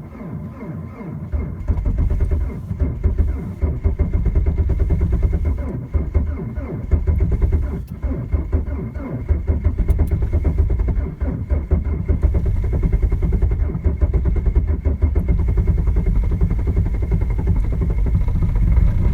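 Diesel car engine running rough and uneven just after a cold start in hard frost, its loudness surging and dipping.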